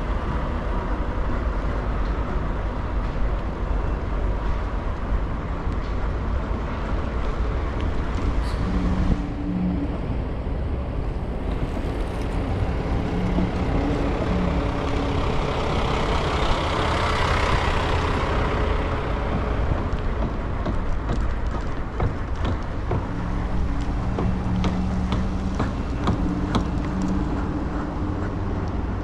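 Road traffic and wind rumble heard from a riding scooter: a steady heavy low rumble, with traffic noise swelling and fading a little past halfway through, and a low steady hum coming and going.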